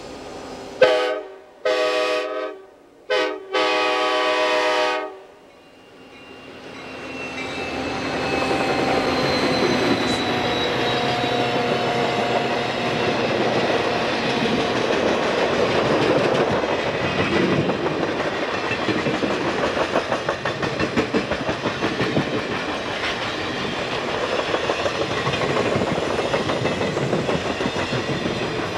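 Amtrak F40PH diesel locomotive's multi-chime air horn sounding the grade-crossing signal, long, long, short, long, in the first five seconds. Then the passenger train rolls past, a rumble building and holding steady with wheels clicking over the rail joints.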